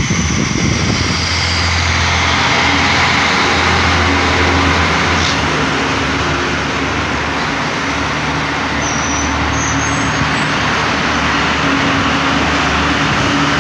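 Diesel multiple-unit passenger train running past alongside the platform. A steady low engine drone sits under the continuous noise of wheels on the rails.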